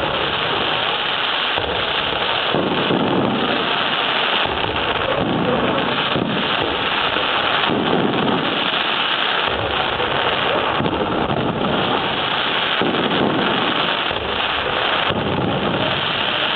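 Fireworks display: a dense, continuous crackle and hiss of bursting shells, with deep booms every two to three seconds.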